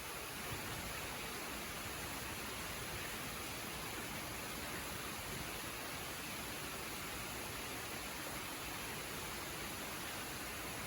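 Waterfall: water falling in a steady, even rush with no breaks.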